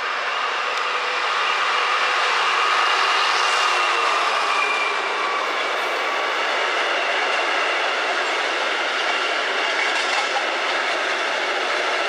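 A train running past on the line: a steady rush of wheel and rail noise with faint whining tones, swelling to its loudest about three seconds in and then holding.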